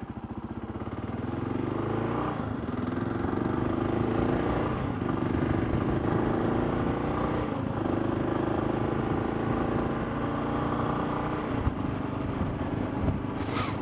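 Motorcycle engine pulling away and accelerating, its pitch climbing and dropping back several times as the rider shifts up through the gears.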